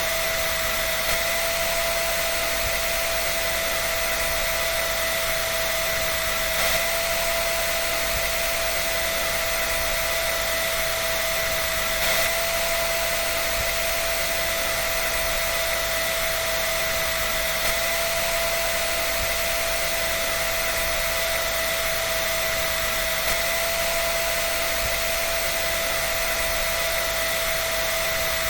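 Hair dryer blowing steadily: an even rush of air with a steady motor whine, and a faint tick about every five and a half seconds.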